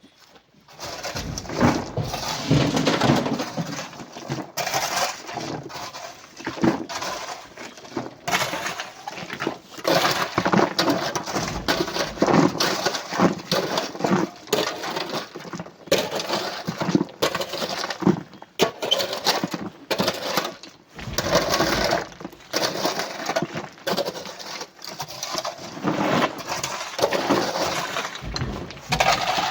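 Coral rock and sand being loaded into a truck: a dense, irregular run of clattering knocks and crunching crashes as the pieces land and break.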